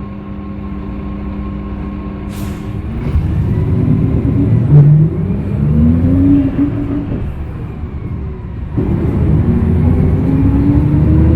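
Hyundai Green City CNG bus's C6GB natural-gas engine idling, with a short hiss of air about two seconds in. It then pulls away with the engine pitch rising, drops back at a gear change, and climbs again.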